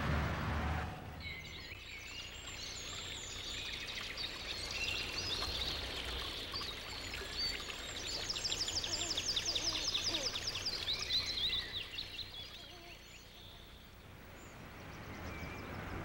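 Birds chirping and calling, with a rapid trill a little past the middle, over a faint steady hiss like running water; the calls fade out near the end.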